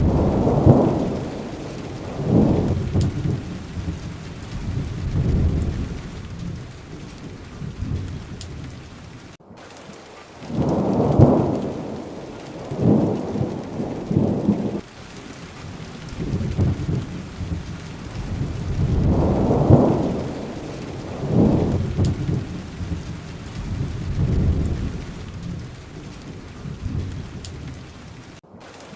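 Steady rain with low rolls of thunder swelling and fading every couple of seconds. The sound cuts out for a moment about nine and a half seconds in and again near the end.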